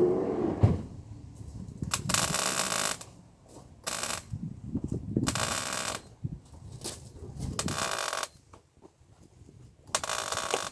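MIG welder laying tack welds on steel body panel: about five short bursts of crackling arc sizzle, each half a second to a second long, a couple of seconds apart, the first about two seconds in.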